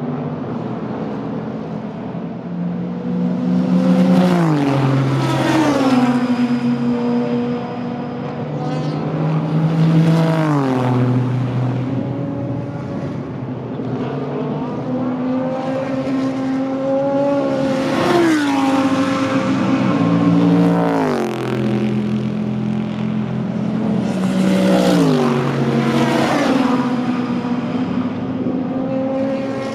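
Super GT race cars passing one after another on track, the engine notes climbing and then dropping in steps through the gears. The loudest passes come about four, ten, eighteen and twenty-five seconds in.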